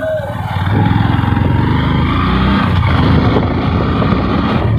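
Hero Glamour motorcycle's 125 cc single-cylinder engine running on the move, getting louder about a second in.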